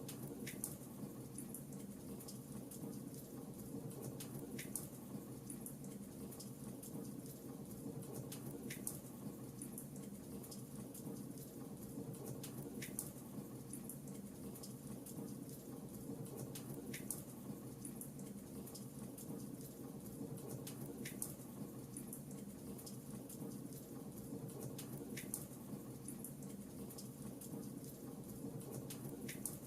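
Fireplace fire crackling faintly: a steady low hiss and rustle, with a single sharp pop about every four seconds.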